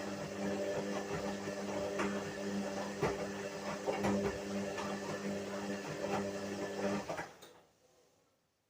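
Whirlpool washing machine running: a steady motor hum with a knock about once a second, fading away about seven seconds in.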